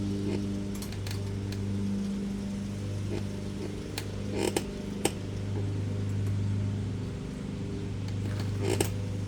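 A few sharp metallic clicks and taps of hand tools on an e-bike's rear derailleur and shifter cable, a cluster about four to five seconds in and one near the end. Underneath, a small engine drones steadily, swelling and fading slowly.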